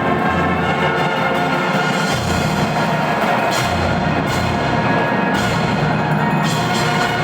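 Marching band playing: held notes from the winds over percussion, with low drum strokes underneath.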